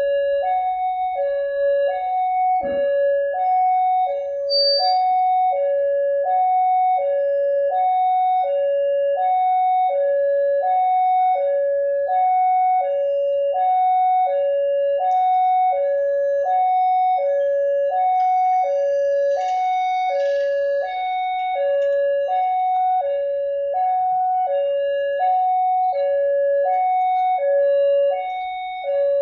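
Railway level-crossing warning alarm sounding two alternating electronic tones, high then low, about one high-low pair a second, which signals that a train is approaching.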